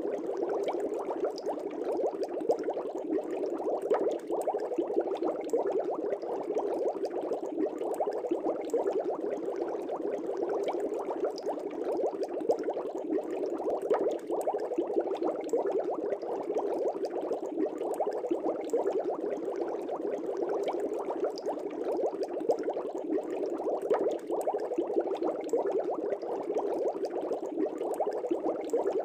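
Fish tank bubbling steadily: a dense, continuous stream of small air bubbles with many tiny pops.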